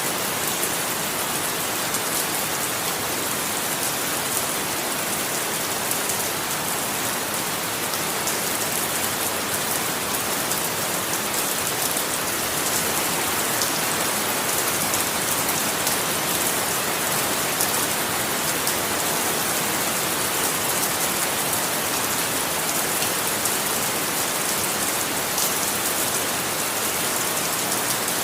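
Steady rain falling, an even hiss of many drops hitting a surface, with fine patter of individual drops on top.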